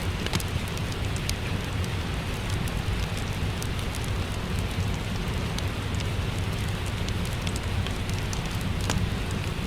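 Steady rain with a low rumble underneath, mixed with a wood fire crackling in scattered sharp pops.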